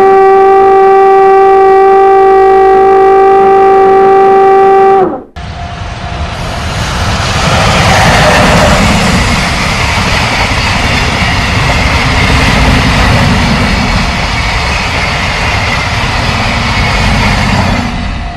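A train horn sounds one long steady note for about five seconds and cuts off abruptly, then the loud running noise of a train follows, building over a couple of seconds and holding steady.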